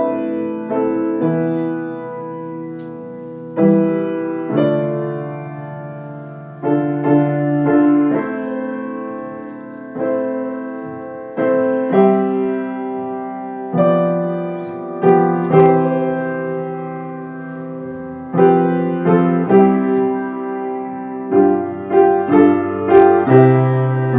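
Solo instrumental music: a slow, gentle melody over chords, each note or chord struck and left to ring away before the next, one to three times a second, with a quicker run of notes near the end.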